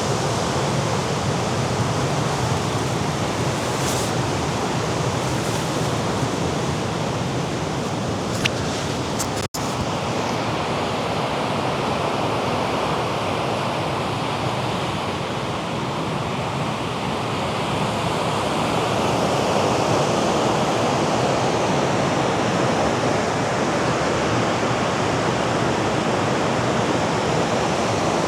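Mediterranean surf washing against the rocky shore below the cliffs, a steady rushing noise that swells a little in the second half. A split-second dropout about nine and a half seconds in.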